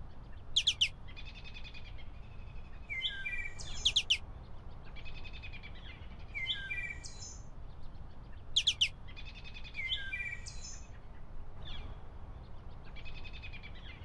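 Songbirds chirping and singing, with a short phrase of quick sweeping and stepped high notes repeating every two to three seconds, over a steady low rumble.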